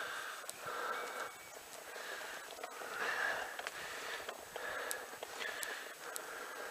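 A cyclist's heavy, laboured breathing, in and out about once a second, from the strain of climbing a very steep hill.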